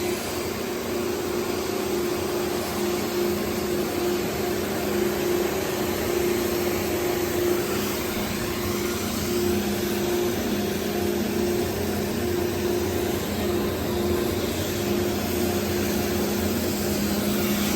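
Steady rushing noise with a constant low machine hum of two tones, unchanging for the whole stretch: wind and machinery at the ski lift.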